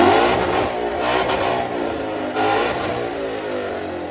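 A performance car engine revving hard. It is loudest at the start, with another surge about two and a half seconds in, then it dies down.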